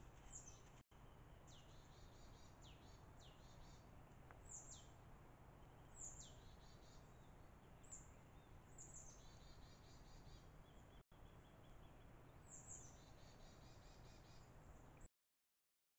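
A bird calling over and over, faintly: each call is a high note sweeping downward, followed by a brief rattling trill, about every one to two seconds. Underneath is a steady low hiss. The sound cuts out abruptly near the end.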